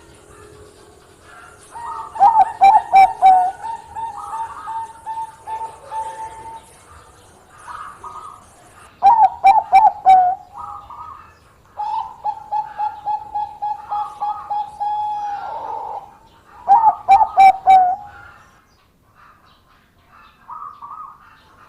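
Zebra dove (Bangkok-strain perkutut) singing its staccato cooing song: three bouts of quick loud coos, with longer runs of rapid, softer even notes between them.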